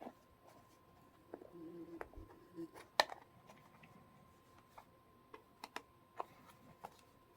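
Small plastic clicks and taps from a hard plastic case being handled, with a sharper snap about three seconds in.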